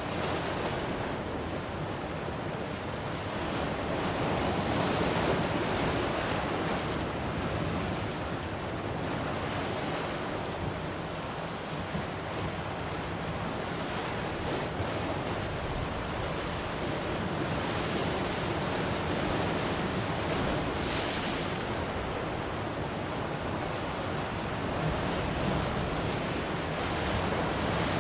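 Ocean surf washing ashore in a continuous hiss that swells and eases as the waves come in, with wind on the microphone.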